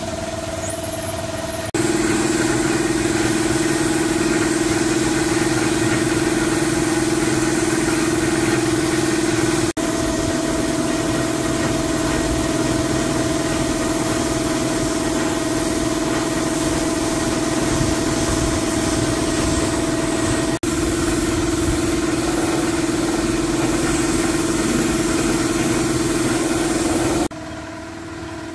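Vintage car engine idling steadily, in several spliced takes with abrupt cuts between them.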